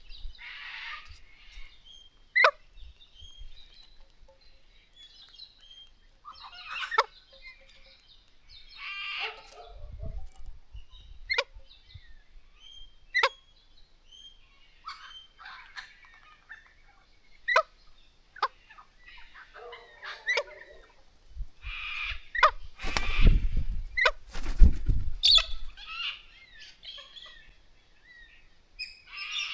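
Galahs calling: scattered short, sharp calls that drop in pitch, mixed with harsher screeching, and a louder flurry of noise about three quarters of the way through.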